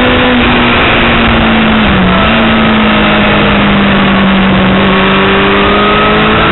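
Yamaha R6's inline-four engine running at steady mid revs under heavy wind rush. The engine note dips briefly about two seconds in, holds lower, then climbs slowly near the end.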